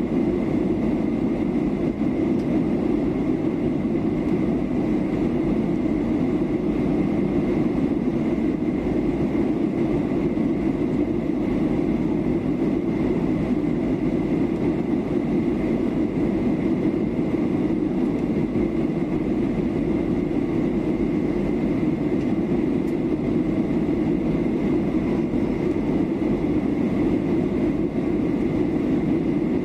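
Steady cabin noise of a Boeing 737-800 airliner in descent: the constant rush of airflow and the CFM56 turbofan engines, heard from inside the cabin, with a faint steady whine above it.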